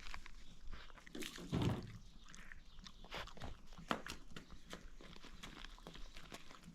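Animal footsteps: scattered light clicks and shuffles, with one louder low sound about a second and a half in.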